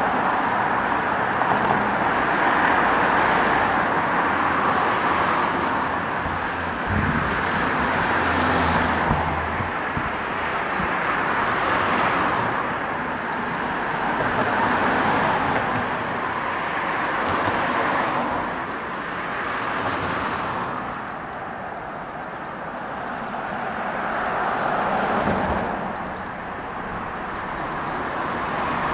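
Street traffic heard from the pavement: cars passing one after another, each swelling and fading away, with a heavier engine rumble about a third of the way through.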